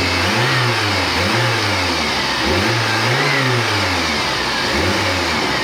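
Chevrolet Niva's engine running and revved in four short blips, the third one longer, with no knock standing out from the top end. A worn valve rocker has just been replaced, which the owner says has cured the cylinder-head knock.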